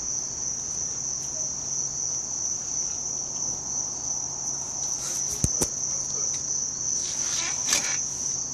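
Steady, high-pitched insect chorus droning without a break, with a couple of sharp clicks about five and a half seconds in.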